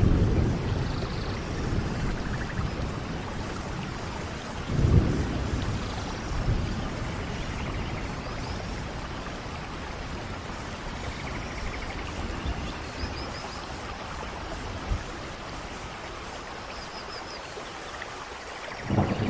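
Thunderstorm: steady rain falling, with rolls of thunder rumbling low, the strongest about five seconds in and another setting in just before the end.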